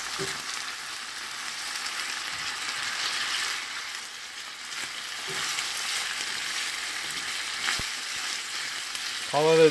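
Beef, tofu and onion sizzling in a frying pan while being turned with tongs: a steady frying hiss with faint ticks from the stirring, and one sharp click just before the end.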